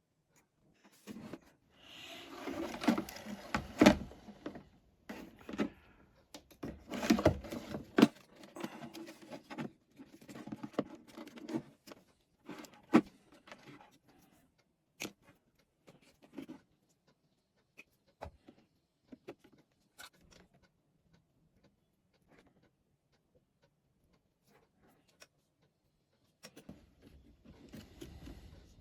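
Handling noise from wiring a switch into a Bluetooth speaker: light taps, clicks and rustling, busy for the first dozen seconds, then only scattered single clicks with quiet stretches, and rustling again near the end.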